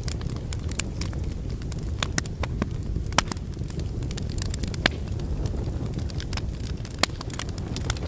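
Logs burning in a fireplace: a steady low rumble of flames with irregular sharp crackles and pops, the loudest pops about three and five seconds in.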